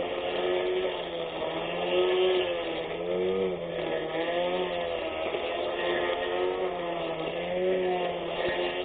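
24V brushless electric lawn mower motor running with a whine that rises and falls in pitch every second or two.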